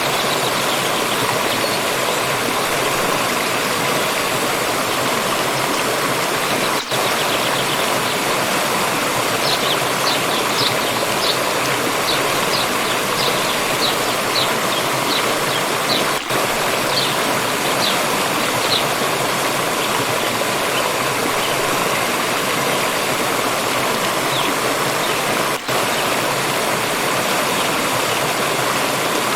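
Water stream flowing steadily, a dense rushing splash. From about ten to nineteen seconds in, a bird calls over it in a quick series of short, high, rising chirps.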